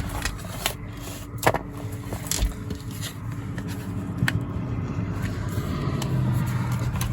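Handling noise from a traveler's notebook cover and its inserts: scattered small clicks and scrapes, a few sharp taps among them, over a low hum that swells in the last couple of seconds.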